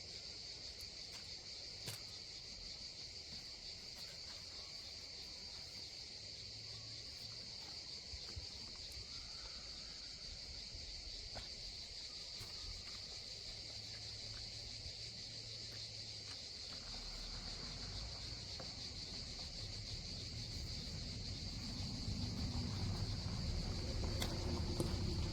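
A steady, high-pitched insect chorus chirring through the summer forest. From about two-thirds of the way in, a low rumble rises beneath it and grows louder toward the end.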